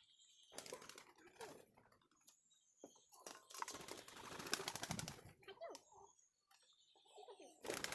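A pigeon scuffling and fluttering, a faint irregular rustle of scratches and wing flaps in two bursts: a short one about half a second in and a longer one from about three seconds to five and a half.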